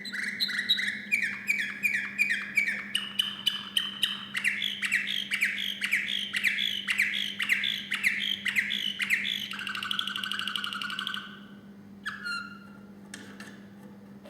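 Male canary singing: a run of quick repeated falling notes, a little over two a second, stepping up in pitch as the song goes on, then a rolling trill that ends about eleven seconds in. After a short pause come two brief notes. A steady low hum runs underneath.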